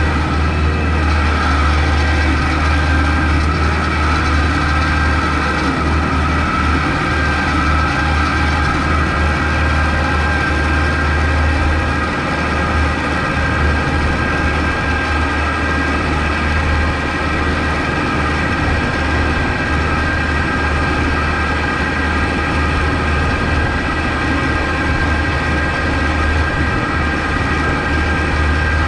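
Kubota MX5200 tractor's four-cylinder diesel engine running steadily with a deep, constant drone, and a steady higher whine over it.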